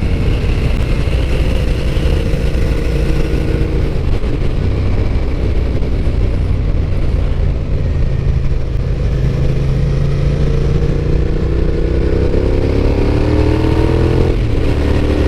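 Suzuki SV650S V-twin motorcycle engine under way, heard from the rider's seat over a steady wind rumble. The engine holds a steady pitch, then climbs as it accelerates in the second half and drops back shortly before the end.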